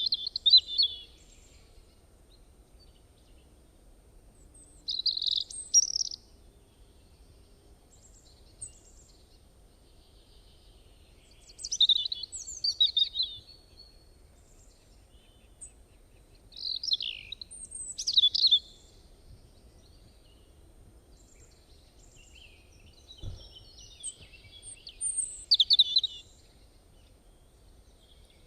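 A bird calling in short bursts of high, rapid chirping notes, about every five to six seconds, with quiet gaps between.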